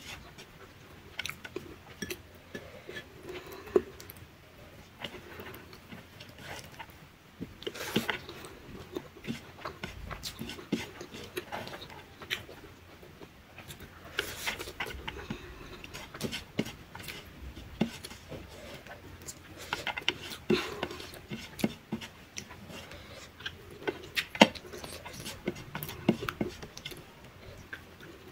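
A person eating rice with her fingers: chewing and mouth clicks, with many short irregular clicks and taps.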